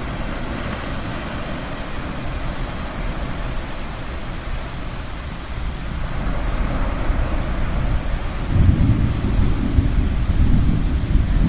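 Low rumble of distant thunder, swelling about eight seconds in, over a steady wash of ocean waves.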